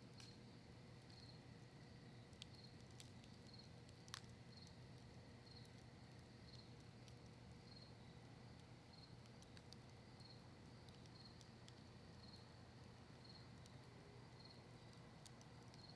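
Faint crackling of a campfire burning cedar leaves and maple wood: sparse sharp pops, the loudest about four seconds in, over a low steady hum. A cricket chirps faintly about twice a second throughout.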